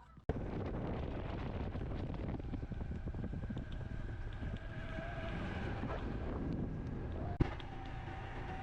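Honda CT125's small single-cylinder engine running while riding, with wind buffeting the microphone. The sound cuts in suddenly just after the start, and there is a sharp click about seven seconds in.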